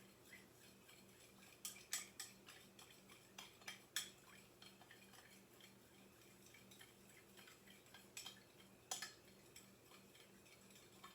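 Faint, irregular clinks of a utensil against a cup as paint is stirred into water.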